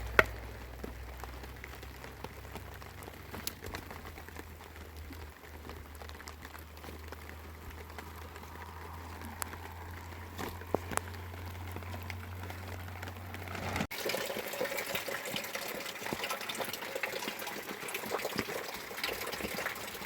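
Steady rain-like water noise with scattered drips and taps. A low hum underneath stops abruptly about 14 seconds in, after which the water noise is brighter and louder.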